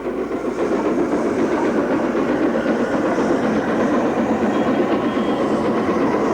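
Peppercorn A2 Pacific steam locomotive working along the line: a steady, loud mix of exhaust and wheel-on-rail noise that holds even throughout.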